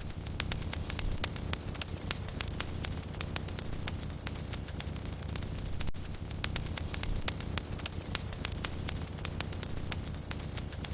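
Wood fire crackling in a fireplace: many sharp, irregular snaps and pops over a steady low rush of the flames.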